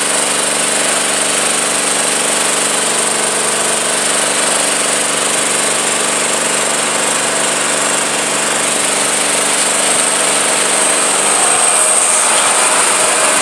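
Tractor engine running steadily at close range, a continuous even drone with a high hiss over it, growing slightly louder near the end.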